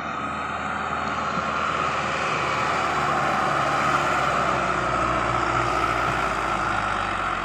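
Sonalika 750 tractor's diesel engine running, growing louder over the first few seconds and then holding steady.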